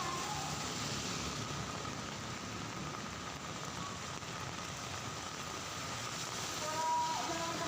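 Heavy rain falling on a city street, a steady hiss mixed with passing traffic on the wet road. A few held tones come in near the end.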